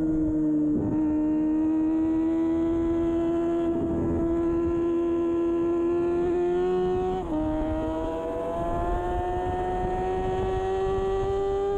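2013 Kawasaki Ninja 636's inline-four engine running hard at high revs under racing load, its pitch climbing slowly. About seven seconds in the pitch drops briefly, as on an upshift, then climbs again.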